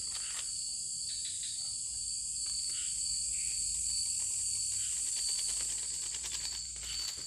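Steady high-pitched chorus of forest insects, with a thin unbroken tone under it. A few faint clicks come near the end.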